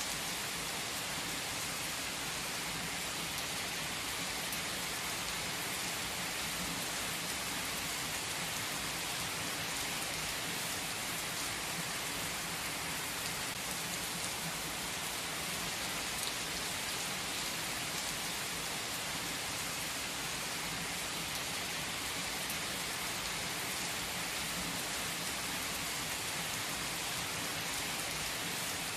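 Heavy rain falling on an asphalt car park, a steady dense hiss of drops splashing on the wet pavement.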